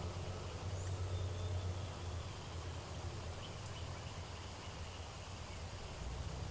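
Quiet outdoor ambience: a steady low rumble with a few faint, distant bird chirps over it.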